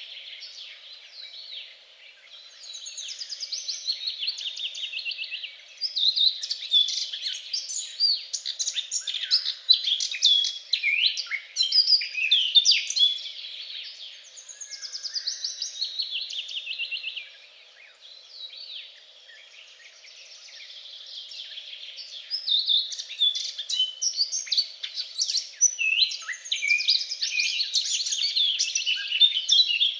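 Several songbirds singing at once: a dense chorus of quick chirps, trills and rising and falling whistles, swelling and easing in waves.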